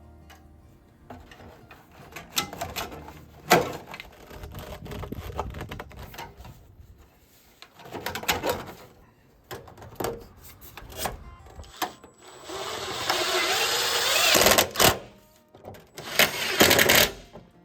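Downspouts being cut and fitted: a series of clanks and knocks, with about two seconds of loud, steady cutting noise roughly three-quarters of the way in.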